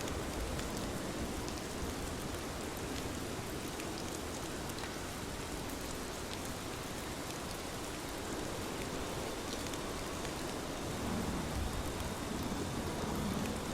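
Steady rain falling on a surface, an even hiss with scattered individual drop ticks, and a low rumble that swells slightly near the end.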